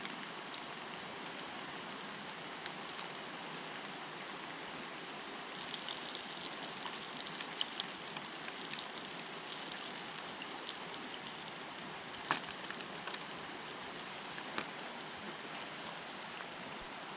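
Steady rush of river water. From about six to eleven seconds in come bursts of fine crackling, then a few sharp isolated pops.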